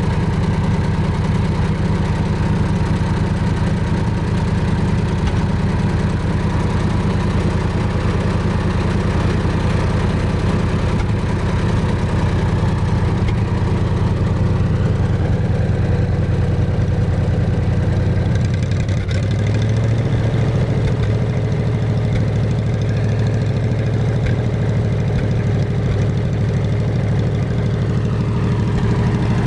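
Wisconsin VF4 air-cooled V4 engine of a 1947 Lincoln pipeliner welder running steadily. Its note changes about two-thirds of the way through, settling into a new steady speed.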